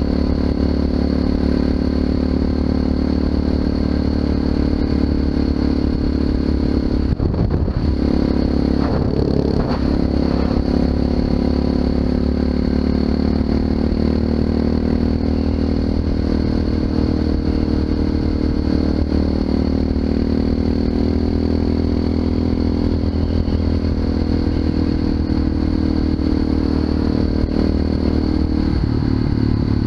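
Honda FMX 650 supermoto's single-cylinder engine through an Arrow aftermarket exhaust, running under way at a mostly steady pitch. The engine note wavers briefly about a quarter of the way in and drops near the end.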